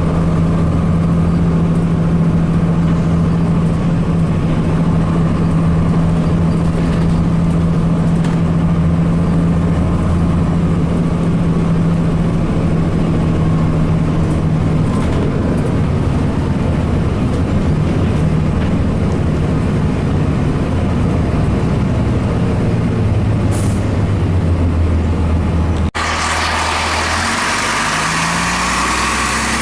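Cummins ISC diesel engine of a 2002 Blue Bird CS transit bus running steadily, its pitch slowly rising over the second half. After an abrupt cut near the end, the engine pulls harder with its pitch climbing in steps.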